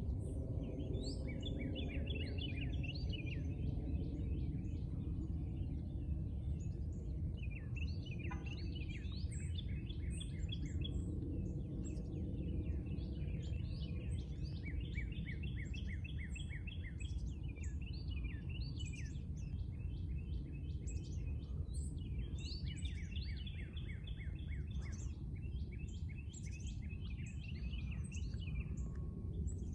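Songbirds singing, phrase after phrase of quick repeated notes, over a steady low rumble.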